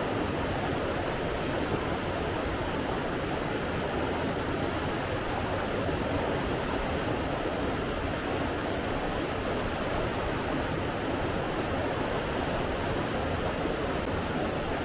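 Steady rushing of water, an even unbroken hiss and rumble with no single splashes or other events standing out.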